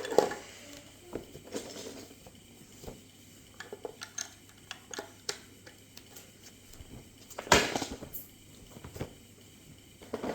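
Plastic Lego bricks clicking and clattering as pieces are handled, with scattered small clicks and a louder clatter about seven and a half seconds in.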